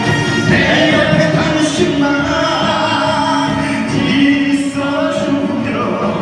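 Singing over a karaoke-style backing track played from a mobile phone, with long held notes.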